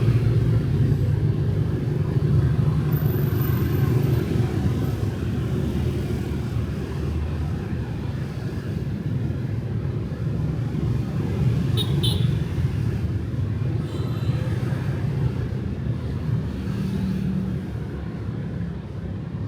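Street traffic with motorbikes and cars: a continuous low rumble of passing engines and tyres, with a brief sharp click about twelve seconds in.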